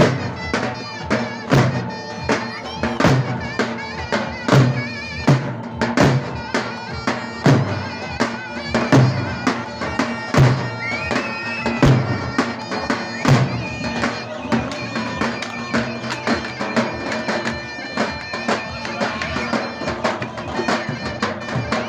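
Davul and zurna playing a Turkish folk dance tune: the zurna's sustained, piercing reed melody bends in pitch over heavy, regular davul strokes. The strongest drum beats ease off a little past the middle.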